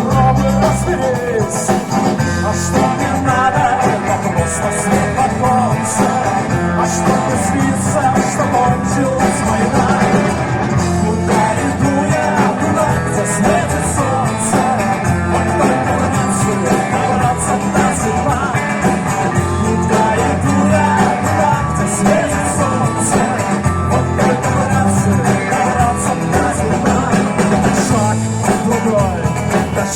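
A live band playing a song in a rock-and-roll style, with a steady drum beat.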